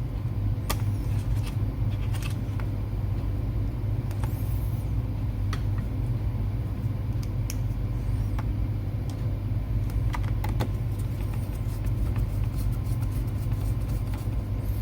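Scattered small clicks and taps of laptop parts and tools being handled as a hard drive is fitted, over a steady low rumble.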